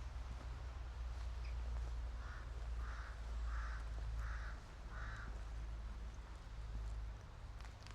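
A crow cawing five times in an even series, about one and a half caws a second, over a low steady rumble.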